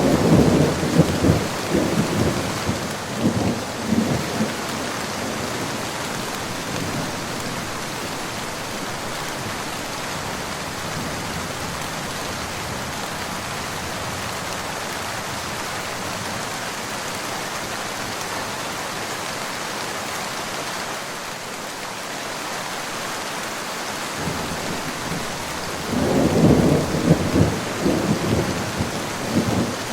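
Steady rain falling, with thunder rumbling twice: one roll in the first four seconds and another beginning about four seconds before the end.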